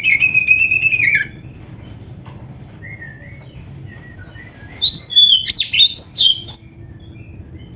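Oriental magpie-robin (kacer) singing: a loud whistled phrase at the start, a few soft notes in the middle, then a rapid burst of varied, high notes from about five seconds in.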